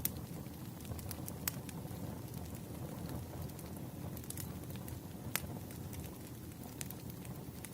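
Wood fire crackling: a steady low rumble of burning logs with scattered sharp pops at irregular moments. The clearest pops come about a second and a half in and again past five seconds.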